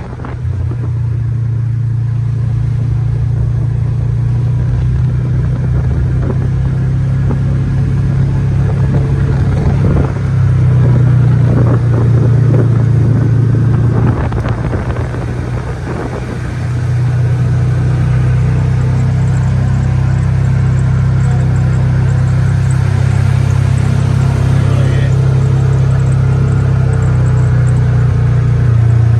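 A motor vehicle driving, with a steady low engine and road rumble that eases briefly just past halfway and then picks up again.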